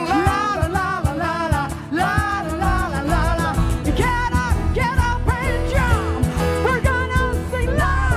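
Live semi-acoustic jazz-pop song: a woman sings with vibrato over a band with guitar, bass and a steady beat.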